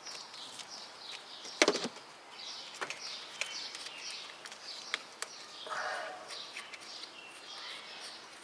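Birds chirping, with a few sharp metallic clicks and taps from a hand wrench taking the nut off the starter's positive-cable terminal; the loudest click comes about two seconds in.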